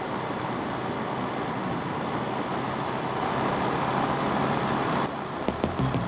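Motorcycle riding noise heard from an onboard camera: steady wind rush and engine hum that grow a little louder. About five seconds in it cuts off abruptly, and a different sound with sharp clicks follows.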